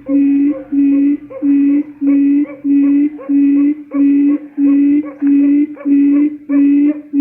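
Recorded quail lure call: a low hooting note repeated evenly about one and a half times a second, as used to draw quail into a trap.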